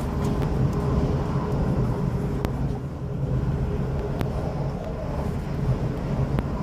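DB Class 423 S-Bahn electric multiple unit running, heard from inside the carriage: a steady rumble of wheels on rail with a low electric hum, broken by a few sharp clicks from the track.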